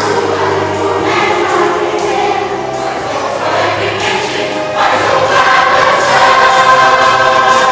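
A church choir singing with instrumental accompaniment in a Christmas cantata, swelling louder about five seconds in.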